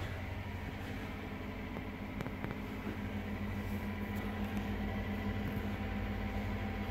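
Steady low mechanical hum inside a truck's cab, with a faint steady low tone.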